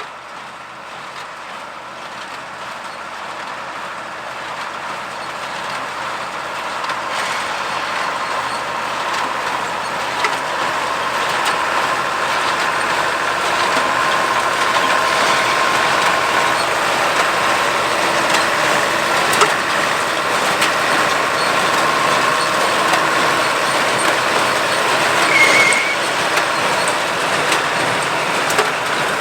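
Allis-Chalmers 200's turbocharged six-cylinder diesel engine running under load while pulling a New Holland 273 square baler with bale thrower, growing louder over the first dozen seconds as the rig comes closer, then steady. A few sharp clicks and a brief high squeak sound late on.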